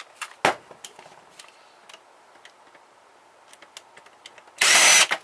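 Scattered clicks and ticks of screws, a screwdriver and plastic printer parts being handled during disassembly, with one louder click about half a second in. Near the end comes a short, loud, rasping noise lasting about half a second.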